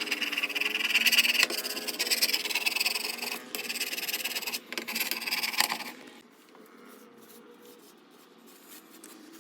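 Scraping and rubbing, rasping and loud for about six seconds, stopping suddenly and leaving only a faint hum: old wax being scraped off a toilet flange after the toilet has been lifted.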